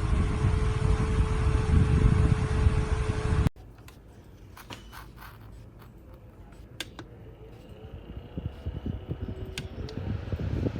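Koonie battery-powered mini desk fan running, its airflow making a loud rushing noise with a steady hum. About a third of the way in the sound cuts off abruptly, leaving a much quieter stretch with a few sharp clicks. Near the end the fan noise builds back up.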